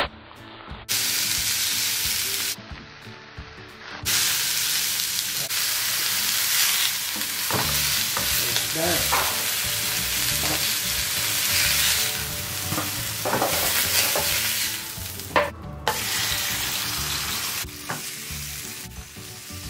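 Beef burger patties sizzling as they fry in hot oil in a pan, with raw patties being laid in. The sizzle cuts out abruptly a few times.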